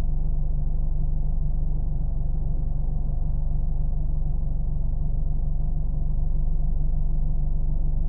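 Car engine running at a steady, unchanging hum, deep and low with almost no high sound.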